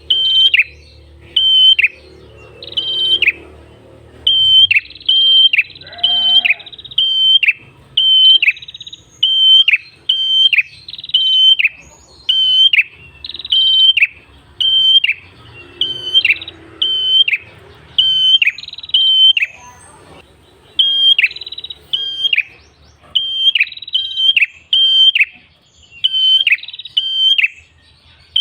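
Prenjak kepala merah singing a run of loud, sharp calls. Each call is a brief high note that drops steeply in pitch, repeated about once or twice a second with a few short pauses.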